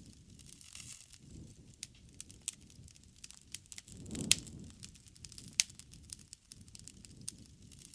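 Wood fire burning: irregular sharp crackles and pops over a low rushing flame sound that swells briefly about four seconds in.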